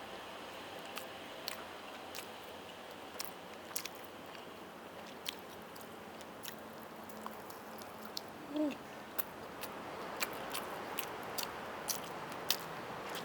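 Close-miked chewing and biting of roast chicken: scattered sharp wet mouth clicks and smacks over a soft steady hiss, with a brief pitched mouth sound a little past the middle.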